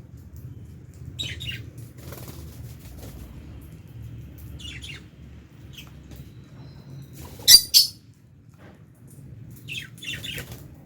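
Lovebirds chirping in short shrill calls that drop in pitch, in scattered clusters. Two very loud sharp sounds come close together about two-thirds of the way through. A steady low hum runs underneath.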